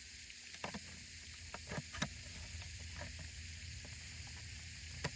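Steady hiss of a floating pond fountain's water spray, with a low steady hum beneath it and a few light clicks, the fountain back running after a light repair.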